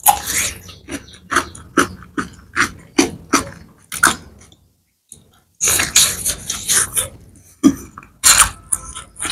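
Close-up eating sounds: crisp crunches as a bite of raw cucumber is chewed, about two to three a second. After a short pause about four seconds in, denser, wet chewing and squishing follow.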